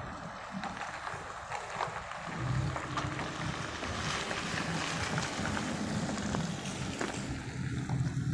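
A motor vehicle's engine running with a low, steady hum. It comes in a little over two seconds in and grows gradually louder, as if the vehicle is drawing near.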